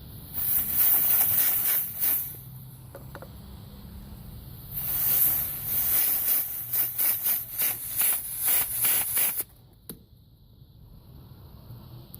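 Pressurised hissing jet blown into a car's EVAP charcoal canister to clean it out. It comes as two long bursts: a first of about two seconds, then a longer one of about five seconds that pulses rapidly and cuts off suddenly.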